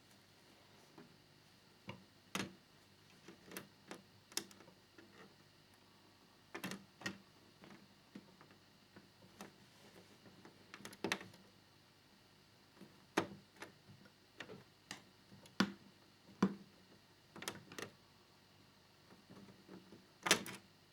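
Irregular small clicks and taps of a screwdriver and tiny screw against the plastic fairing of a scale model motorcycle, with a dozen or so sharp ticks spread unevenly, as a stubborn screw is worked into place.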